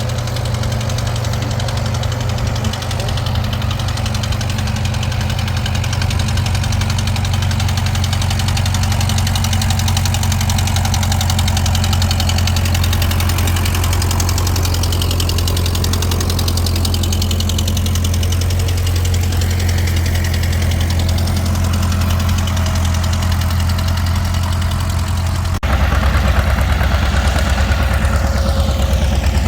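Tractor engine running steadily with a low hum. Near the end the sound changes abruptly to a louder, deeper engine note.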